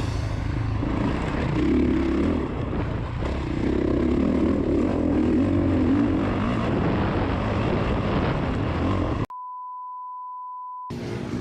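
Steady vehicle-like running noise for about nine seconds. It then cuts off abruptly and is replaced by a single steady electronic beep, one pure tone held for about a second and a half.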